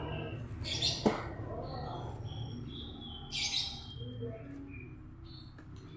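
Small birds chirping in short high notes, with a sharp knock about a second in and a brief rustling hiss around three and a half seconds.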